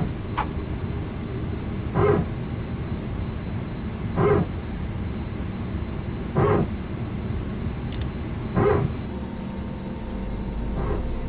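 A320neo power transfer unit (PTU) barking during engine start: six short barks about two seconds apart over the steady hum of the aircraft. A deeper engine rumble builds near the end.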